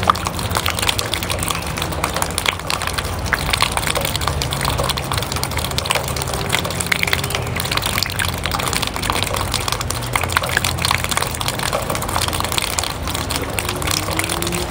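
Steady rain dripping and splashing off a roof edge: a dense, even run of small drop ticks, with a faint low hum underneath.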